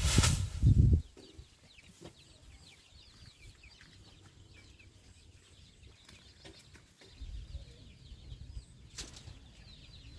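A loud low knocking and rustling in the first second, then quiet, with many faint, quick, high chirps from birds throughout. A low rumble comes in at about seven seconds and a sharp click at about nine.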